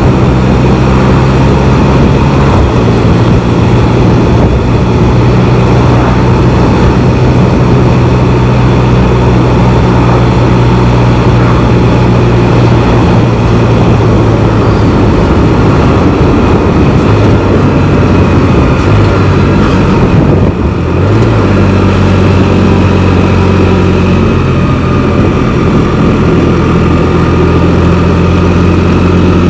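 Can-Am Spyder three-wheeled motorcycle's engine running on the move, with steady wind and road rush on the microphone. The engine note shifts a few times, about halfway through and again around two-thirds of the way in.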